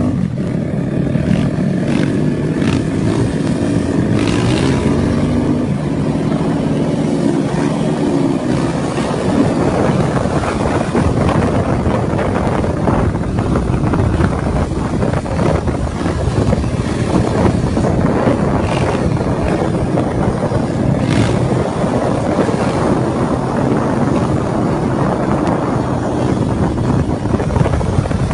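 An engine running steadily over a continuous rush of noise, its pitch clearest and slightly wavering during the first several seconds.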